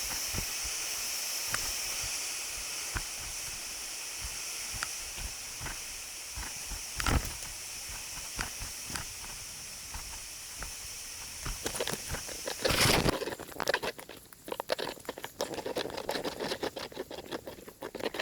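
Steady hiss of rushing water with scattered clicks. About twelve seconds in, a burst of knocks gives way to dense, irregular crackling and crunching.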